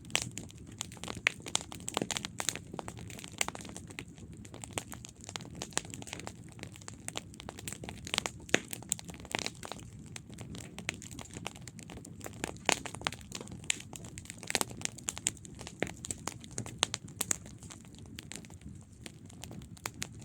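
Wood campfire burning, with many irregular sharp crackles and pops over a steady low rush of flame.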